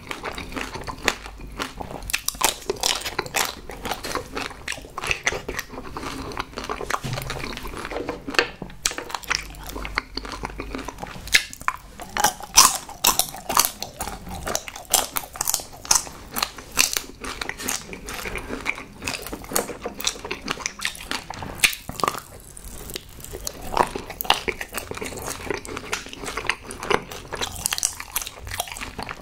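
Close-miked chewing and biting of chocolate-coated marshmallows, with many sharp crackles as the thin chocolate shell breaks.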